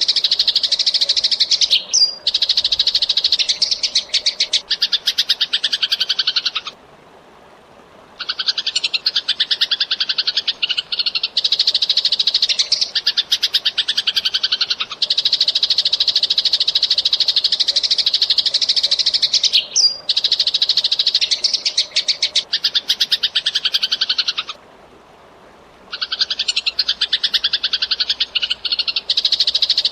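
Eurasian tree sparrow chirping in a loud, rapid, unbroken chatter of fast dense chirps. It pauses for a second or two twice, about a quarter of the way in and again near the end.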